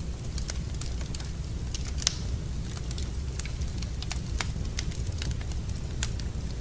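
Wood fire burning in a fireplace: a steady low rumble of flames with scattered sharp crackles and pops, the loudest pop about two seconds in.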